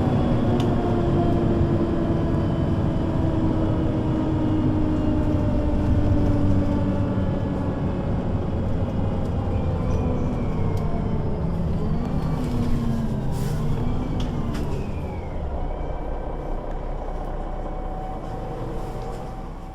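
Solaris Urbino 12 III city bus with a Voith automatic gearbox running and slowing down: its engine and drivetrain whine sinks gradually in pitch, wavers up and down for a few seconds past the middle, then holds steady.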